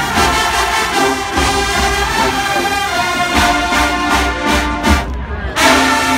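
HBCU show-style marching band playing: brass section with trombones and trumpets over bass drum hits. The horns stop briefly about five seconds in, then come back with a loud held chord.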